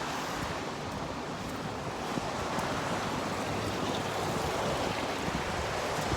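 Steady rushing noise of wind and rain, swelling slightly midway.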